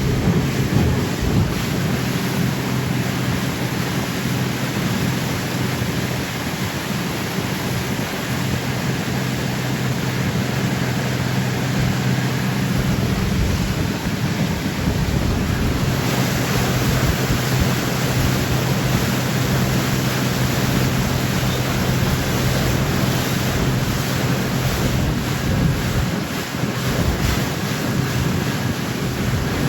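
Boat engine running steadily under way, a low even drone, with water rushing past the hull and wind buffeting the microphone; the wind and water hiss grows a little stronger about halfway through.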